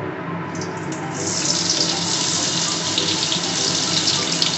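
Sliced onions hitting hot vegetable oil and starting to sizzle about a second in: a dense crackling hiss as they begin frying into birista (crisp fried onions).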